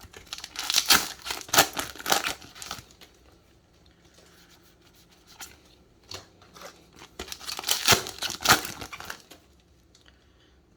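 Foil booster packs of trading cards being torn open and their wrappers crinkled, in two loud rustling spells: one about a second in and one about seven seconds in, with quieter handling of packs and cards between them.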